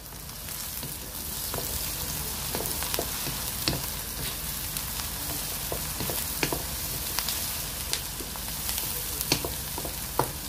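Chopped onions and garlic sizzling steadily in hot oil in a kadai, with a dozen or so sharp clicks of a spatula stirring them against the pan.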